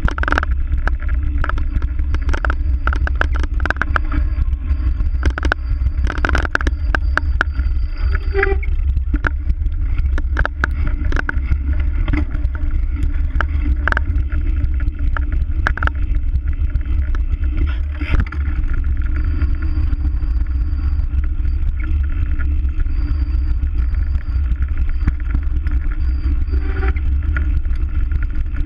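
Wind rumbling on the microphone of a bicycle-mounted action camera while riding, with frequent clicks and rattles from the bike and its mount.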